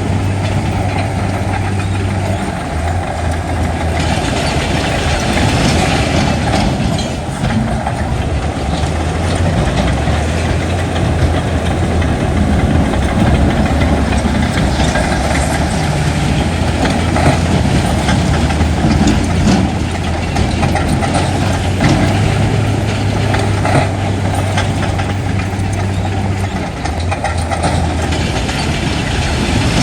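Heavy diesel earthmoving machinery running steadily, a deep engine drone under continuous clanking and rattling; the engine note shifts briefly a couple of seconds in and again near the end.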